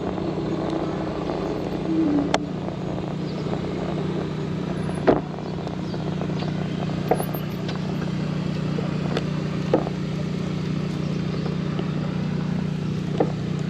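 Electric bike riding along a trail: a steady low hum under wind and tyre noise, with scattered sharp clicks and knocks, the loudest about five seconds in.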